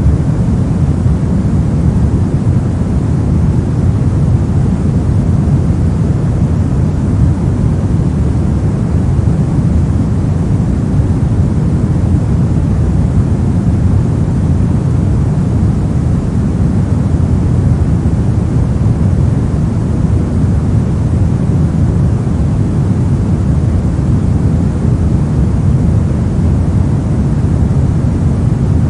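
Steady synthetic noise with its weight in the lows, falling away toward the highs: continuous pink noise, even and unchanging.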